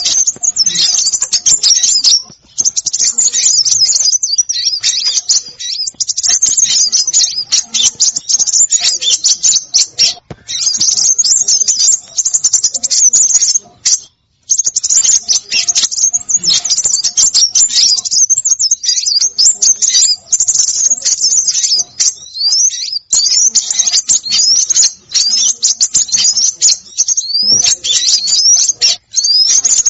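A dense, noisy chorus of small songbirds: rapid high-pitched chirps and twitters pour out almost without a break. In the last third, quick rising whistled sweeps repeat every second or so. This is a recorded bird-lure call.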